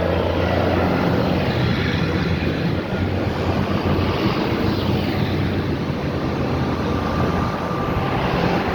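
Tractor diesel engines running steadily as tractors drive past in a line, with a deep, even drone.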